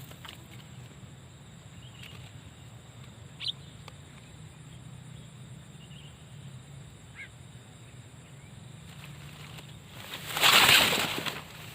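A few short, scattered bird chirps over a steady low hum, one louder chirp about three and a half seconds in, then a loud harsh noise lasting about a second near the end.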